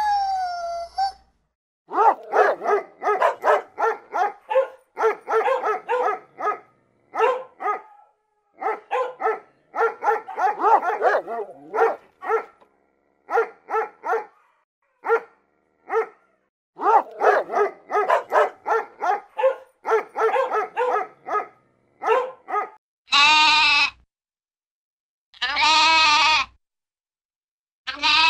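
A horse's whinny ending about a second in, then a dog barking in quick runs of short barks for about twenty seconds, then a lamb bleating three times, each bleat about a second long.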